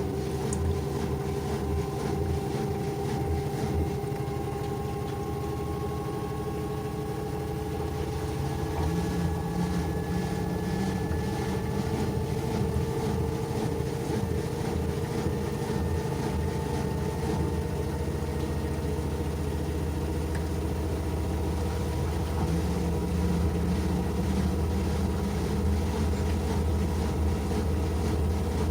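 LG washing machine running, its motor whine rising slowly and steadily in pitch as the drum picks up speed, over a low hum.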